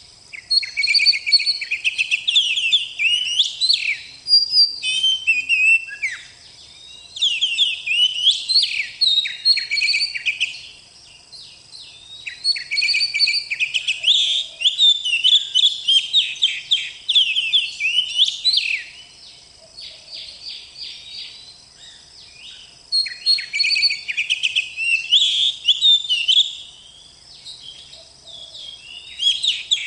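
Oriental magpie-robin (kacer) singing a rapid, varied song of whistles and chirps, in bouts of several seconds broken by short pauses.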